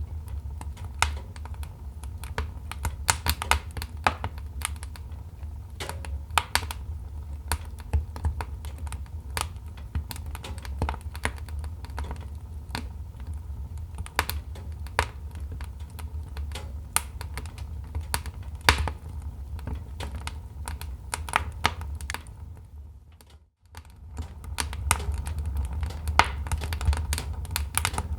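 Wood fire crackling in a fireplace: irregular sharp snaps and pops over a low, steady rumble. The sound fades out briefly about 23 seconds in, then fades back up.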